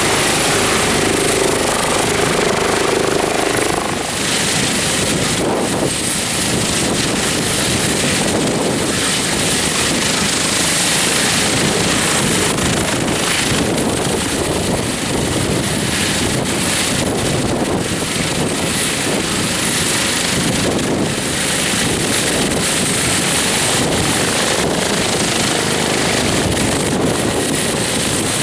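Airbus H145 helicopter running steadily: a rushing rotor and engine noise with a high, thin turbine whine over it. A mid-pitched hum sounds alongside for the first few seconds, then drops out about four seconds in.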